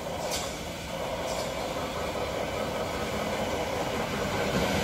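Thameslink Class 700 electric train running, heard from inside the carriage: a steady rumble of wheels and traction that grows gradually louder, with two short clicks in the first second and a half.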